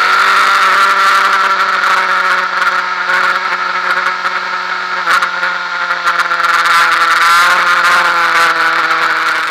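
Honda Fireblade inline-four engine running hard at a steady high note at track speed, heard onboard with rushing wind noise over it. There is a single brief knock about five seconds in.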